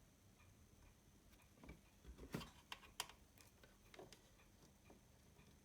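Near silence broken by a scattering of faint, sharp clicks and taps, mostly in the middle stretch. They sound like small parts and wires being handled on a workbench.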